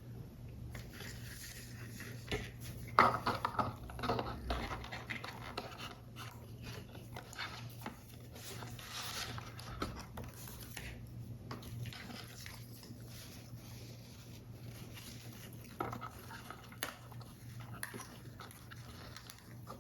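Paper and card being handled during paper model assembly: irregular soft rustling with small taps and clicks, busiest about three to five seconds in and again near the end, over a steady low hum.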